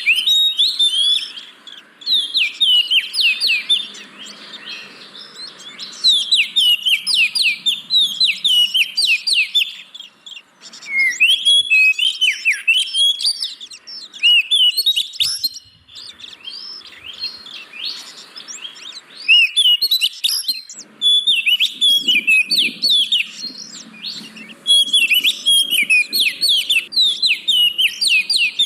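Oriental magpie-robin (kacer) singing: loud phrases of rapid, sharply falling whistled notes, repeated with short pauses between them.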